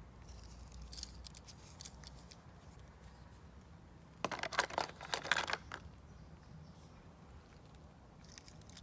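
Small toy vehicles being handled, with scattered light clicks and a dense burst of rapid clicking and rattling about four seconds in, lasting a second and a half.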